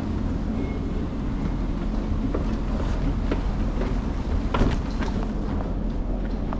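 Steady low drone of an airliner's air-conditioning and ventilation during boarding, with a few sharp clicks and knocks, the loudest about four and a half seconds in.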